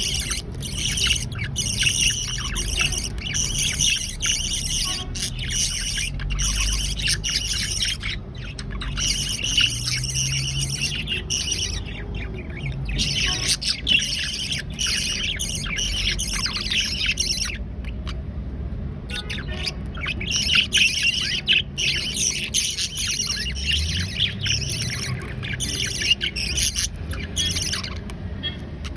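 Young budgerigars chirping and squawking in a dense, continuous chatter, with a brief lull about two-thirds of the way through.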